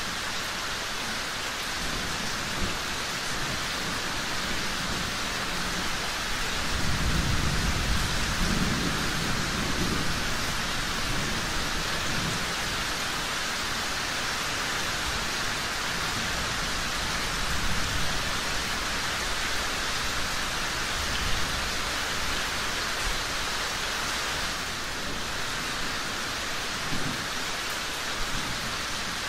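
Steady rain falling, an even hiss. A low rumble swells about seven seconds in and fades a few seconds later.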